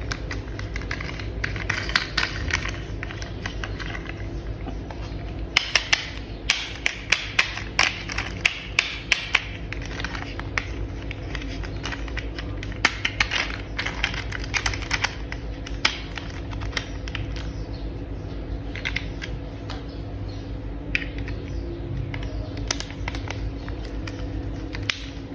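Clicking and tapping of small hard plastic toy parts being handled and snapped together, with bursts of sharp clicks, the busiest run about six to nine seconds in, over a steady low hum.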